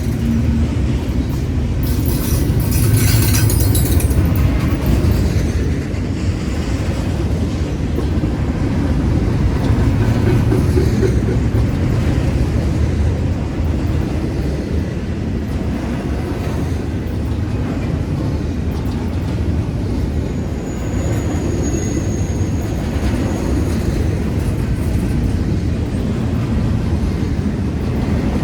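Double-stack container train's cars rolling past at speed: a steady heavy rumble and clatter of steel wheels on the rails, with a brief high-pitched squeal about three seconds in.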